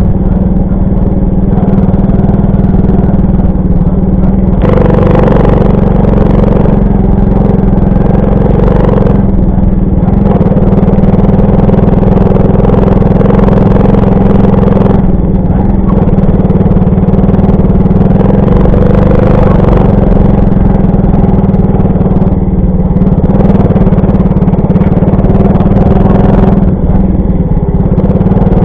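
Alpha 110 moped's small single-cylinder four-stroke engine running steadily while riding, with a rushing noise that swells and fades a couple of times.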